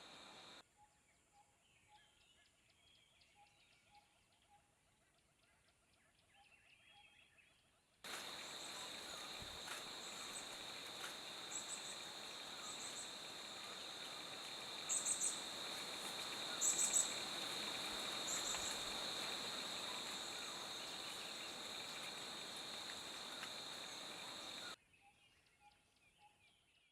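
Natural outdoor ambience with birds calling. Over most of it a steady high insect-like drone and a hiss sit under repeated high-pitched bird chirps, loudest near the middle. Before and after this the sound falls to a faint background with soft, scattered calls.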